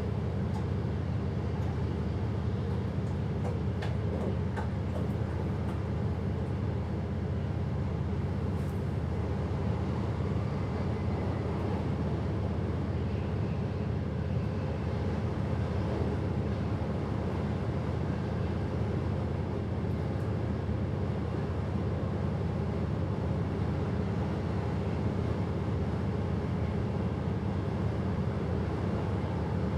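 Steady running noise of a passenger train heard from inside the driver's cab: an even low rumble at constant loudness, with a few faint ticks in the first ten seconds.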